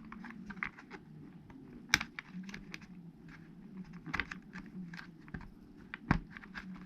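Small plastic clicks and taps of an RC truck's clip-in battery tray being handled and fitted, with a sharper click about two seconds in and another near the end.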